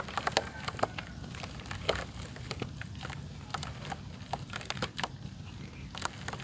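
Dry red dirt clay crunching and crumbling in irregular sharp crackles, with a steady low hum underneath.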